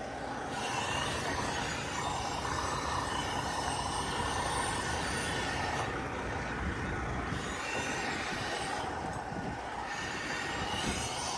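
Semi truck running steadily while it maneuvers at a loading dock, with a faint high squeal rising slowly in pitch, twice.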